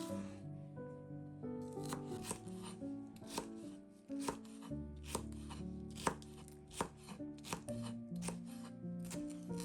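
Knife chopping food on a cutting board: sharp, irregular strokes, about two or three a second.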